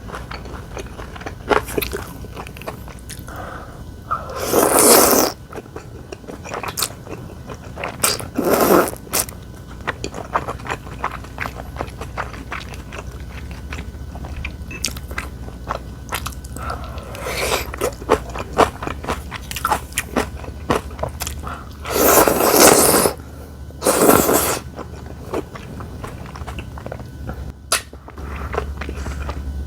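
A person eating close to the microphone: chewing and biting with many sharp, wet mouth clicks. Four louder noisy bursts of a second or less come about 4, 8, 22 and 24 seconds in.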